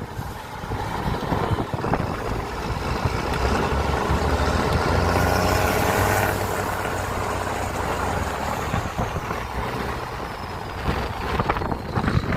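Off-road trial truck's engine working hard, revving up over the first few seconds and then running steadily under load.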